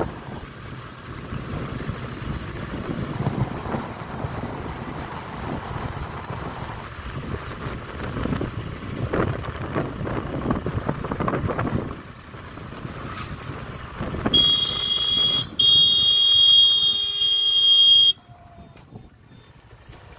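A rumbling wind-and-motion noise, then a loud horn blown for nearly four seconds with a brief break early on, cutting off suddenly.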